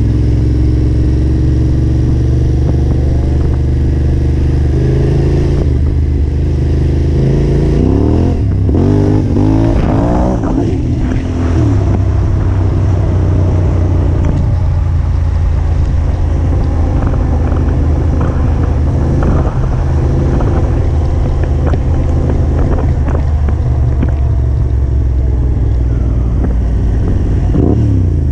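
Yamaha Ténéré 700 adventure bike's parallel-twin engine running steadily on a dirt trail. Its revs swing up and down several times about a third of the way in and rise again near the end.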